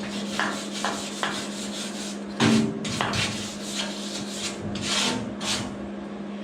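Uneven hand scraping or rasping strokes on metal, with a louder stroke about two and a half seconds in, over a steady low hum.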